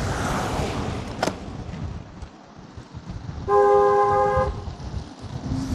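A vehicle horn sounds once for about a second, a steady two-tone blare, over a low rumble of wind buffeting the microphone. A sharp click comes about a second in.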